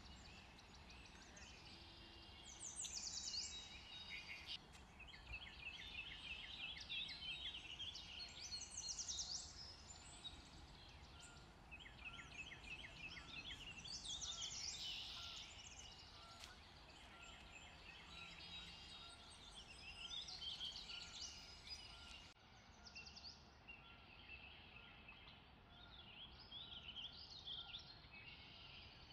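Faint birdsong: small birds chirping and trilling in short repeated phrases, over a low steady background hiss.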